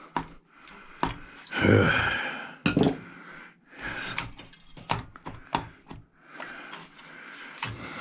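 Metal clanks, knocks and scraping of hand tools prying at a salvaged scrap part to break it apart, with a louder grinding scrape about two seconds in.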